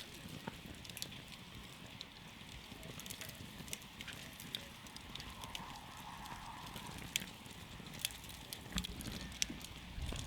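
Wood campfire burning, crackling with irregular sharp pops over a steady low rumble of flame. A few louder pops come in the second half.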